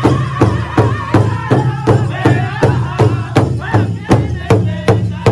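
Powwow drum group: a big drum struck in a steady, even beat, just under three strikes a second, with singers' high, wavering voices over it.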